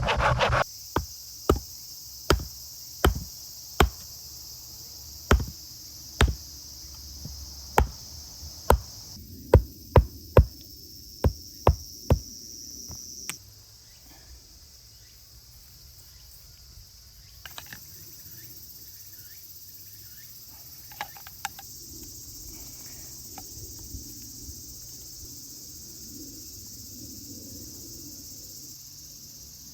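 A series of about fifteen sharp knocks, roughly one a second, during the first twelve seconds, then stopping. A steady high chirring of insects runs underneath.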